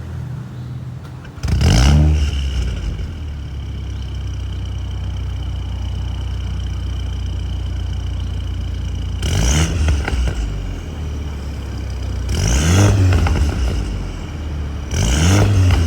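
Mini Cooper Clubman JCW's turbocharged four-cylinder engine, with a full aftermarket performance exhaust, idling steadily and blipped four times, about one and a half, nine, twelve and fifteen seconds in, with pops from the exhaust as the revs fall back.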